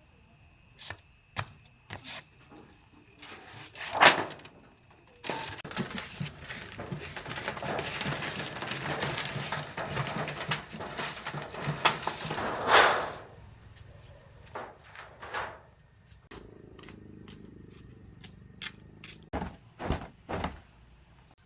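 Knocks and a long spell of rustling, scraping handling noise lasting about seven seconds, over steady insect chirping such as crickets.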